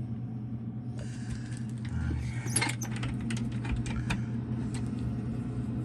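Steady low electric hum from the incubator, with a run of small clicks and rattles about two and a half seconds in as the incubator and its contents are handled.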